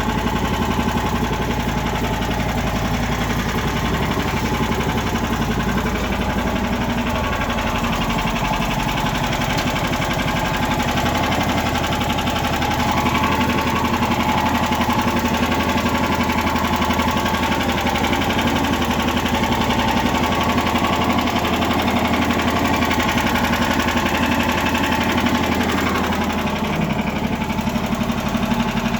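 Lifan petrol engine on a homemade karakat running steadily, during its first run after installation.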